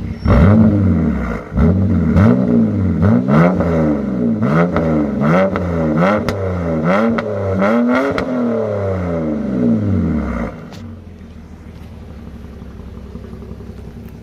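BMW 330xi inline-six running through a muffler-delete exhaust, revved in a quick series of about ten throttle blips, each climbing and falling in pitch. About ten seconds in it drops back to a steady idle.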